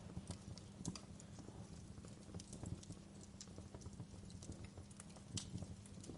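Fireplace fire crackling: irregular snaps and pops, a few sharper ones, over a steady low rumble.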